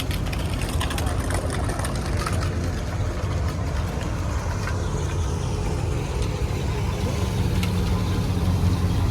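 A car engine idling with a steady low rumble that grows louder near the end, over background crowd voices.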